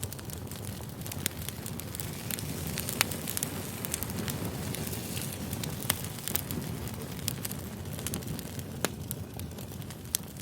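Wood fire crackling: a steady hiss with scattered sharp pops.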